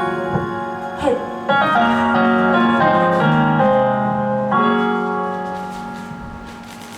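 Piano music playing sustained chords that change every second or so, fading toward the end.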